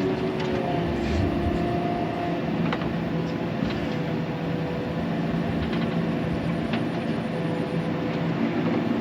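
Engine of a loader-type machine carrying a bucket of rock, running steadily as it drives, with a few light clanks along the way.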